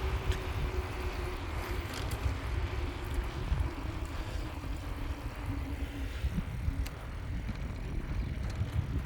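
Wind rumbling on the microphone and the rattle of a bicycle being ridden, with scattered clicks and knocks. A faint steady hum runs underneath and stops about six seconds in.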